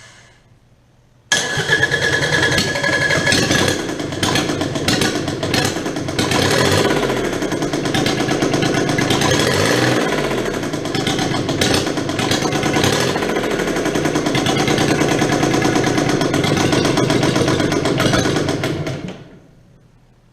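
Kubota D722 three-cylinder diesel starting up abruptly about a second in, then running unevenly for about seventeen seconds before dying away near the end. It is running on all three cylinders but poorly, which they put down to low compression needing valve work.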